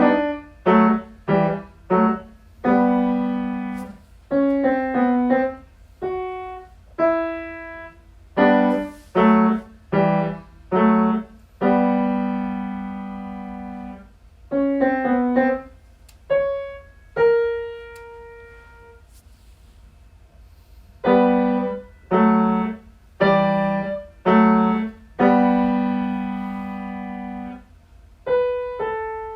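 Piano playing a phrase of short struck chords and single notes, some chords held and left to die away, with a pause of about two seconds partway through before the playing resumes.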